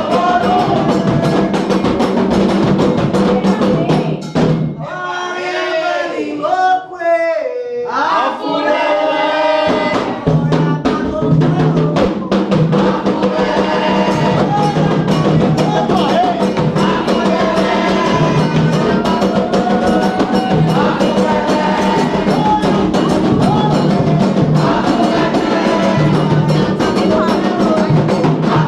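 Candomblé ritual music: atabaque hand drums playing a fast rhythm under singing voices. About four seconds in the drums drop out and the voices carry on alone for a few seconds, then the drumming comes back in.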